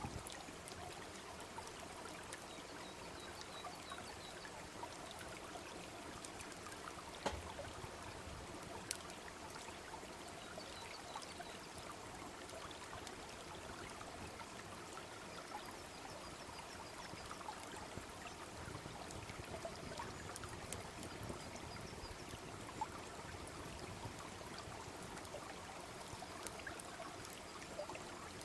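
A small stream babbling steadily, with a wood campfire giving a few sharp crackling pops, the loudest about 7, 9 and 23 seconds in.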